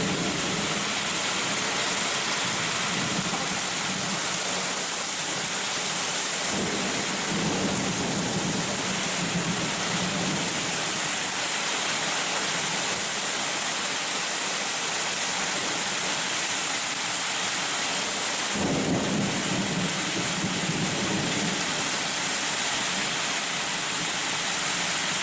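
Heavy rain pouring steadily in a severe thunderstorm with high wind. Deeper rumbling surges come in about six seconds in and again near nineteen seconds.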